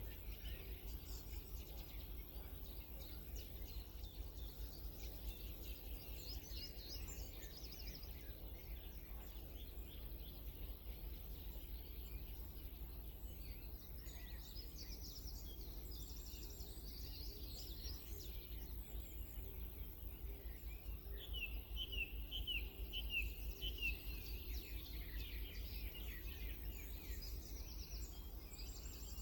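Wild birds singing and calling with scattered high chirps, and a quick run of repeated chirps about two-thirds of the way through, over a steady low rumble.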